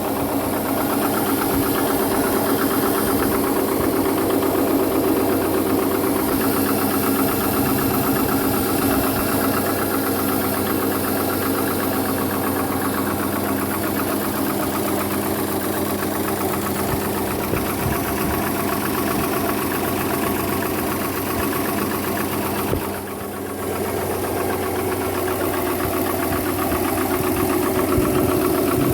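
Subaru EJ255 turbocharged 2.5-litre flat-four engine running steadily with a rapid knocking, which the owner suspects could be a connecting rod. The sound dips briefly about three-quarters of the way through.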